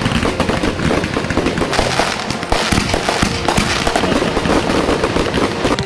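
Consumer fireworks going off in a dense, rapid stream of crackles and pops, with no let-up.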